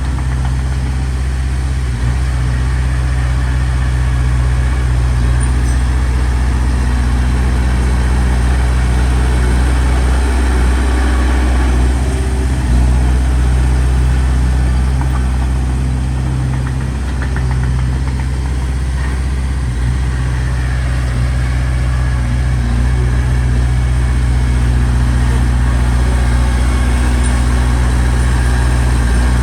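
Komatsu D21P bulldozer's diesel engine running steadily at a constant low pitch.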